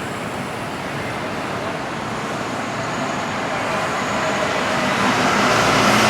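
Street traffic noise: a steady rumble of passing road vehicles, growing louder toward the end as one draws near.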